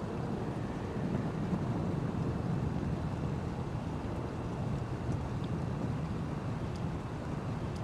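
Steady low rumble of a sailing schooner under way at slow speed, with wind on the microphone.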